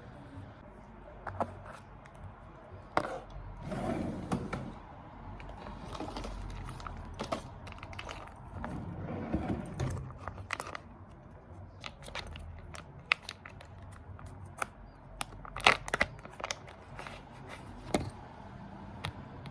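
Small objects being handled: scattered sharp clicks and taps, with two stretches of soft rustling and scraping.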